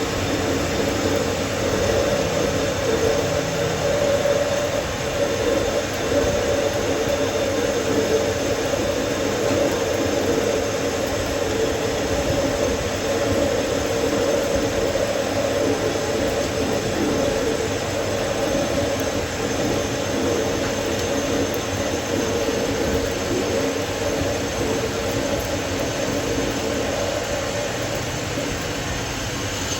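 A workshop machine running steadily for the whole stretch, a constant unbroken mechanical drone.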